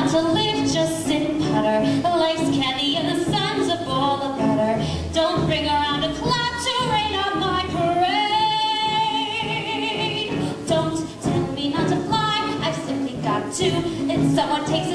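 A woman singing a show tune over instrumental accompaniment, holding one long note with vibrato about eight seconds in.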